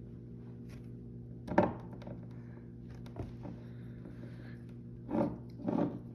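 A steady low hum with a sharp knock about a second and a half in, a faint tap near three seconds, and two duller thumps a little after five seconds.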